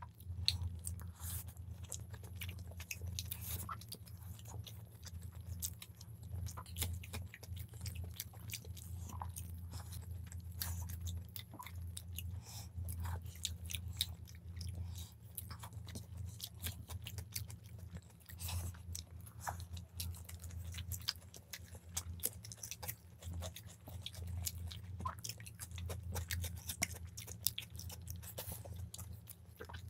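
Chewing and biting of two people eating chicken biryani by hand: a run of small, irregular mouth clicks and bites. A steady low hum runs underneath.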